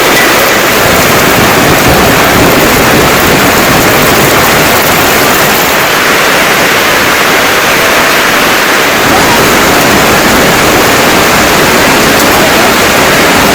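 Heavy monsoon rain falling, a loud, steady hiss with no breaks.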